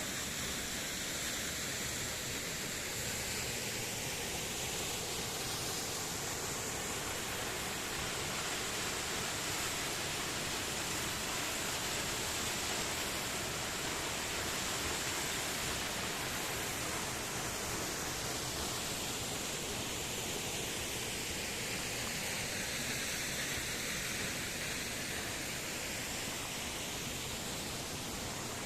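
A waterfall's steady rush of falling water. It is a constant hiss-like roar whose tone shifts slowly now and then.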